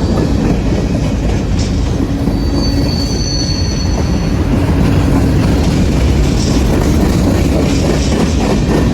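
Norfolk Southern freight train rolling past close by with a steady low rumble; a couple of seconds in, a high wheel squeal rings out for about two seconds.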